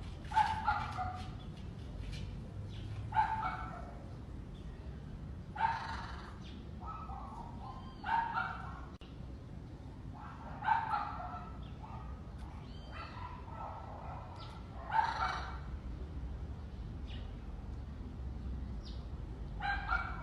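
Macaw calling: a short call every two to three seconds, about eight in all, over steady background noise.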